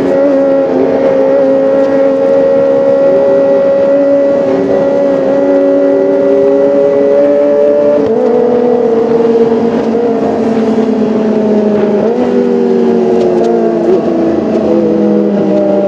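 Kawasaki ZX-25R's 250 cc inline-four engine running steadily at high revs, its pitch drifting slowly and stepping abruptly twice, about halfway and about three-quarters of the way through.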